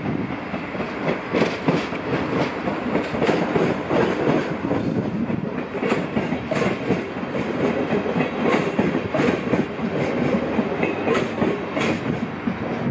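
A Dutch NS ICM 'Koploper' electric intercity train running past, with its wheels clattering over rail joints and points in an uneven run of clicks.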